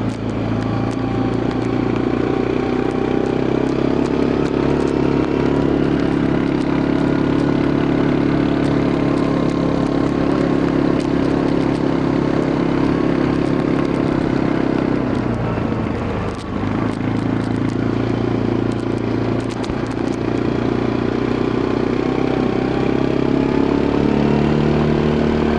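Quad bike engine running while under way, its pitch drifting up and down with the throttle. It drops back briefly about two-thirds of the way through, then picks up again.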